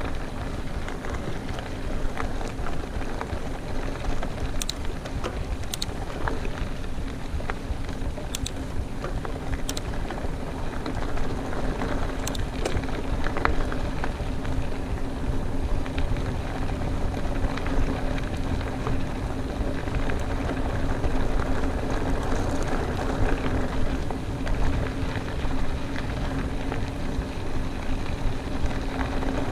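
Mountain bike rolling along a dirt trail: a steady rush of tyre noise and wind on the microphone, with a low hum that strengthens about a third of the way in and scattered sharp clicks.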